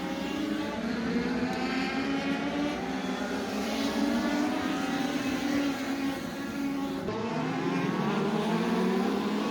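INEX Legends race car's Yamaha four-cylinder motorcycle engine running hard around a short oval. It eases off about seven seconds in, then its pitch climbs again as it pulls back up.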